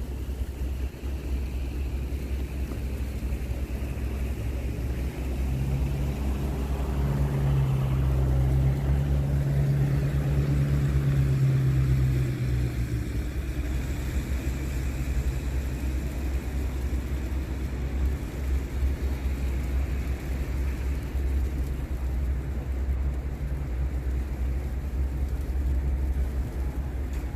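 A motor vehicle passing by: its engine hum swells over several seconds and fades away, over a constant low rumble.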